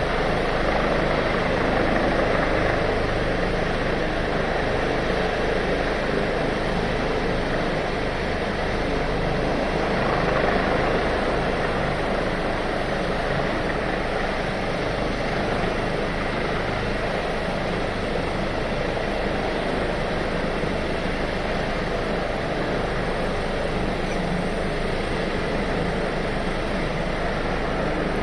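Rescue helicopter's engine and rotor running at a steady, unchanging level.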